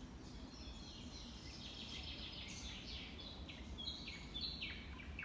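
A songbird singing two phrases of short, clear notes that step down in pitch, over a faint low steady rumble.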